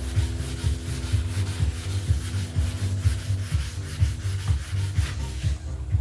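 Hand wet sanding of a boat hull with 180-grit wet sandpaper, repeated back-and-forth rubbing strokes that stop shortly before the end. Background music with a steady bass beat plays underneath.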